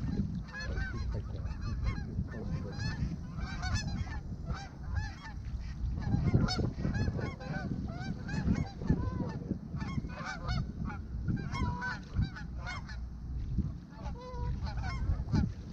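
Goose honking and clucking: many short, rapid calls overlapping throughout, over a low rumble of heavy wind on the microphone.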